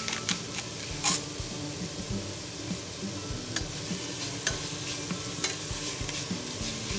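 Chicken pieces sizzling in hot oil in a stainless steel pot, with a wooden spatula stirring them and scraping against the pot now and then.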